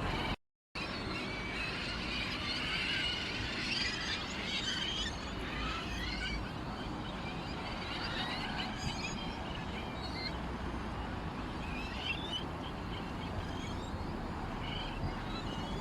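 Small songbirds chirping and twittering, a dense flurry of calls in the first few seconds and scattered chirps after that. The sound drops out completely for a moment just after the start.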